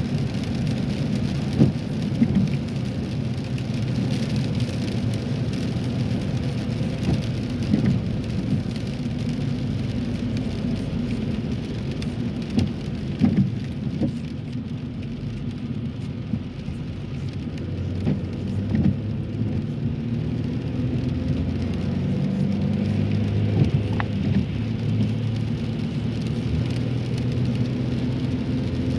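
Steady low road and engine drone of a car driving in the rain, heard from inside the cabin, with rain and tyre hiss on the wet road and scattered light ticks of drops hitting the car.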